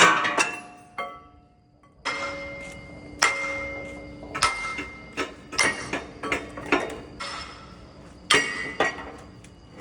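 A quick series of sharp knocks and clinks of hard objects, some ringing briefly, over a steady hum that cuts out for about a second near the start.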